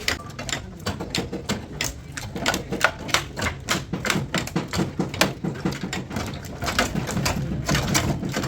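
Rapid, irregular light hammer taps on car body sheet steel, several sharp knocks a second.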